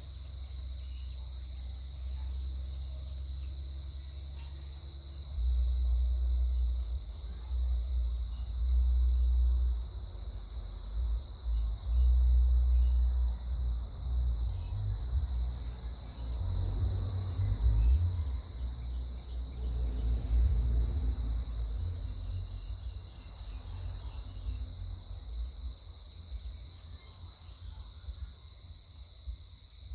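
Steady high-pitched chorus of insects, with uneven low rumbling that comes and goes from about five seconds in until about twenty-two seconds.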